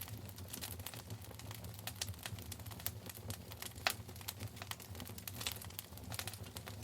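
Wood fire burning in a fireplace, crackling with many small irregular pops over a low steady rumble of the flames.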